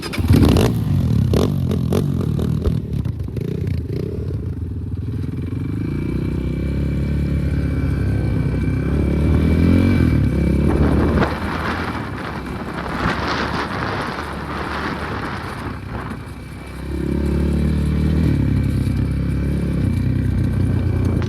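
Enduro motorcycle engine pulling away and riding, revving up and easing off as it goes, with some clatter from the bike. The engine drops back about three-quarters of the way through, then picks up again.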